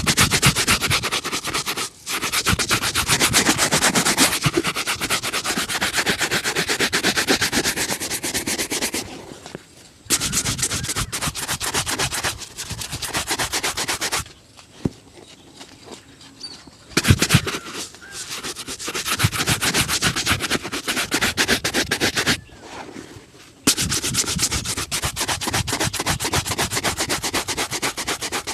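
A shoe being buffed by hand in fast back-and-forth rubbing strokes. The strokes come in runs of several seconds, with short pauses between, and there is a single knock partway through.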